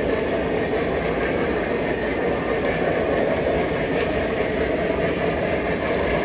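Model train running on its track: a steady rumble of wheels and motor, with a single light click about four seconds in.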